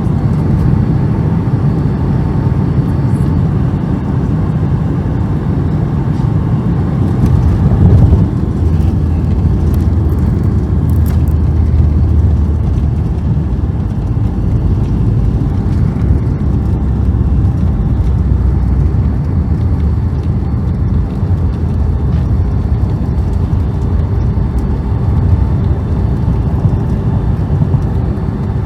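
Boeing 757-200 cabin during landing, heard from a rear window seat: a steady loud rumble of engines and airflow, a sudden jolt about eight seconds in as the wheels touch down, then a heavier low rumble of the rollout that swells twice and eases near the end.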